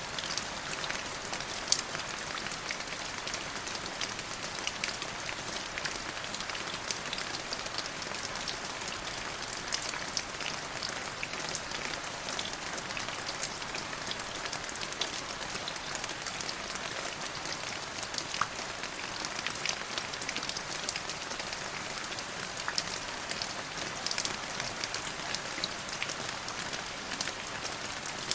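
Steady rain falling on a surface: an even hiss sprinkled with many small sharp drop ticks.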